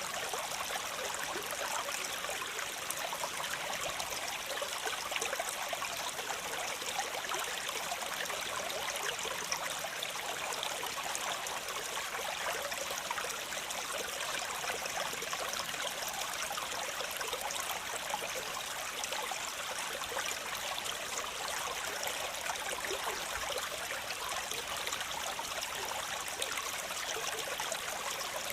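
Waterfall: water falling and splashing steadily, an unbroken hissing rush with little low rumble.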